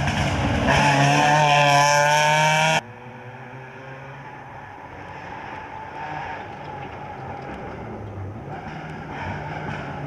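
Volkswagen Polo rally car engine running hard at high revs, breaking off abruptly about three seconds in. A quieter engine note follows, falling in pitch, then a low engine sound builds near the end.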